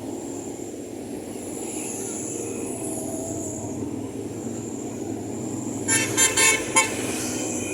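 Vehicle horn giving four quick toots about six seconds in, over a steady rumble of engines and road traffic.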